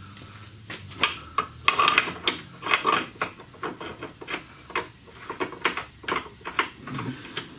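Irregular metallic clicks and clatter from hand tools and parts being handled during work on the van's lower frame, a few to several knocks a second, loudest about two to three seconds in.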